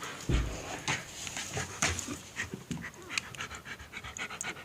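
A dog panting, with many light clicks and taps scattered through, and a dull thump about a third of a second in.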